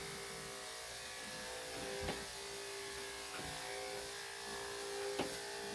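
Electric dog grooming clippers with a #3 3/4 blade running steadily, a constant hum, as they cut through a Yorkshire Terrier's coat, with a few faint ticks.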